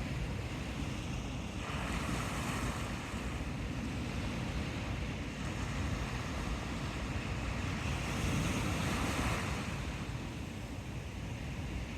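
Pacific Ocean surf washing in, with wind buffeting the microphone as a steady low rumble. The hiss of the surf swells twice, about two seconds in and again about eight seconds in.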